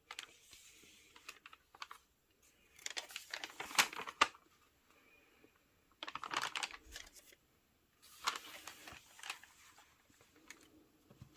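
Paper being handled: crinkling and rustling with sharp clicks, in four short bursts with quiet gaps between.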